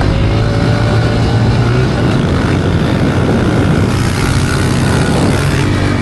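Small dirt bike engine running loud and fairly steady, close to the microphone.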